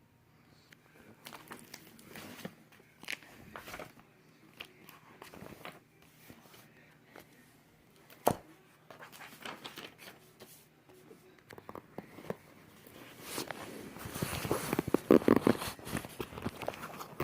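Small handling noises: scattered rustles and light clicks, with one sharp click about eight seconds in and a busier, louder stretch of crinkly rustling near the end.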